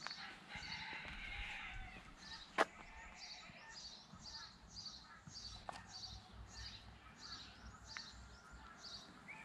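A small bird chirping over and over outdoors, about two short high chirps a second, faint against quiet rural background noise, with one sharp click about two and a half seconds in.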